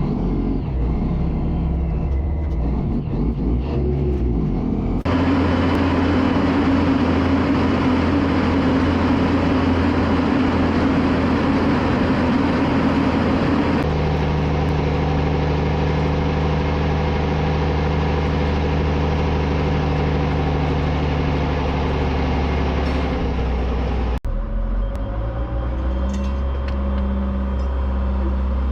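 A heavy diesel engine running steadily, in several clips joined by hard cuts, with the engine note shifting at each cut.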